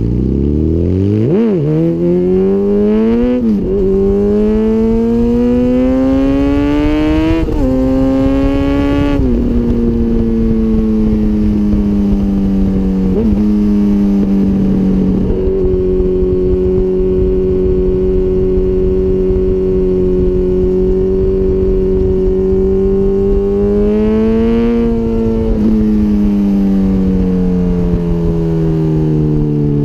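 Honda CBR1000RR inline-four with a Micron full exhaust, accelerating through the gears with quick upshifts in the first ten seconds. It then holds a steady cruise, pulls briefly again, and eases off near the end, with wind rush underneath.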